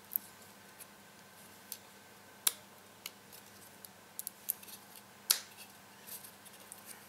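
Scattered sharp clicks and light taps of a soldered LED clock circuit board being handled and turned over by hand, with three louder clicks spread through.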